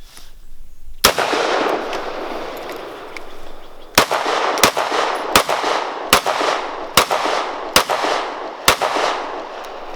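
Gunshots from a firearm in a timed shooting drill: one shot about a second in, then after a pause seven more at a steady pace of a little more than one a second, each shot leaving a long fading echo.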